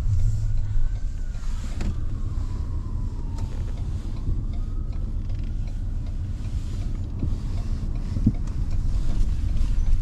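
Steady low rumble of a running motor vehicle. A faint high tone slides down and then back up in the background.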